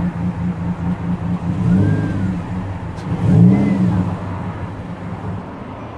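Lexus GS300's 2JZ-GE inline-six running at idle through newly fitted OBX headers and midpipe, with the throttle blipped twice, briefly raising the revs about two seconds in and again, louder, about three and a half seconds in, before it settles back to idle.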